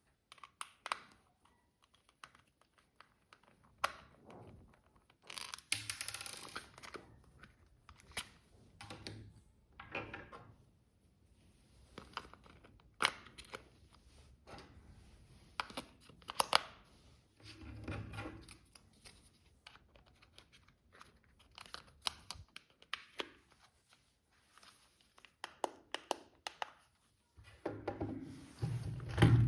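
Toy packaging being opened by hand: cardboard and plastic tearing and crinkling, with sharp clicks, in short irregular bursts.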